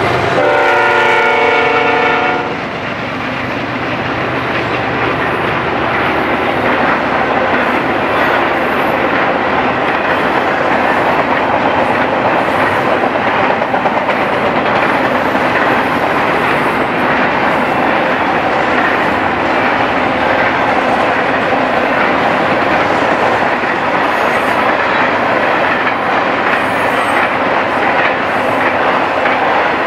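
BNSF freight locomotive's air horn sounding one chord for about two seconds, cutting off, followed by the steady rumble and wheel clatter of a long intermodal train of double-stack container and trailer cars passing close by.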